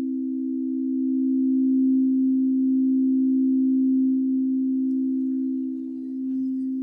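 Singing bowls ringing together in a sustained, low, almost pure hum of a few close tones that slowly swells and fades, with a higher bowl tone joining near the end.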